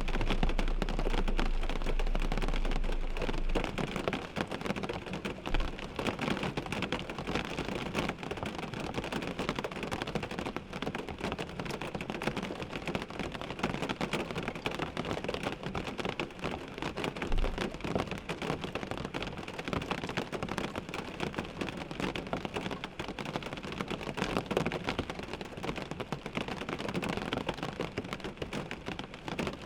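Rain falling on a car windshield: a dense, steady hiss of countless small drop taps on the glass. A low rumble underneath stops about three and a half seconds in.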